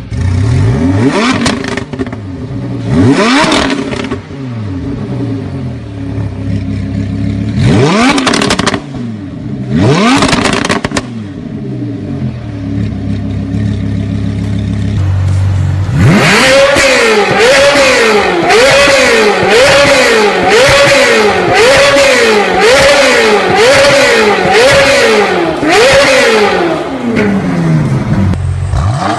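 An engine with a loud exhaust idling between revs: four single blips of the throttle in the first ten seconds or so, then from about halfway a long run of quick repeated revs, a little under a second apart, before it drops back to idle near the end. The exhaust pops and crackles as the revs fall.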